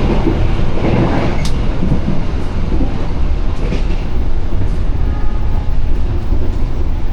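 Argo Bromo Anggrek express train running at speed, heard from on board: a steady low rumble of wheels on the track with a few faint knocks.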